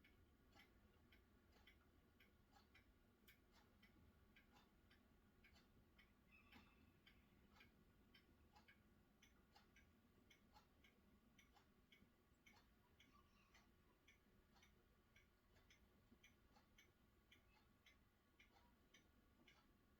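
Near silence with faint, irregular ticking, several ticks a second, over a low hum.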